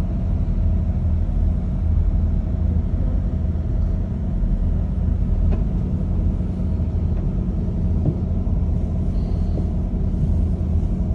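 Cruise boat's engines running with a steady low drone and a faint steady hum above it.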